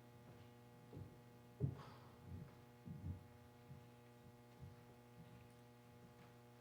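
Near silence with a steady low electrical hum and scattered soft thumps and knocks, the loudest about a second and a half in.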